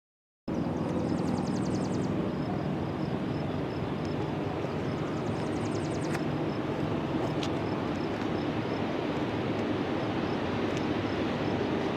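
Diesel freight locomotives rumbling steadily as a train approaches, starting abruptly about half a second in. Short rapid high trills come twice over the rumble.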